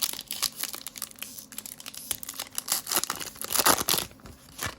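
Trading-card pack wrapper crinkling and tearing as it is handled and ripped open. A rapid crackle that is loudest near the end and stops suddenly.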